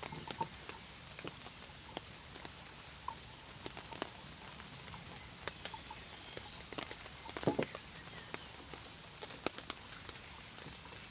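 Raindrops pattering irregularly, individual drops ticking and tapping at uneven intervals over a steady background hiss, with a louder cluster of knocks about seven and a half seconds in.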